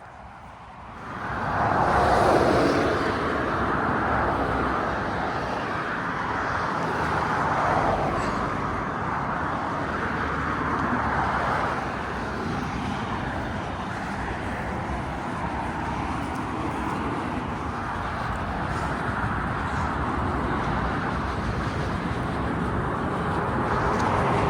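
Motorway traffic close by: a continuous rush of tyres and engines that swells and fades as vehicles pass every few seconds. It starts about a second in.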